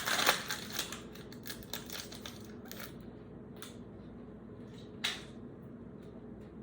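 Card pack wrapper crackling as it is pulled open, followed by trading cards being slid out and handled, with scattered soft clicks of card stock and a sharper snap about five seconds in.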